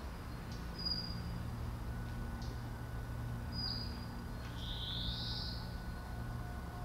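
Birds chirping a few times: two short, high chirps and a longer one about five seconds in, over a steady low hum.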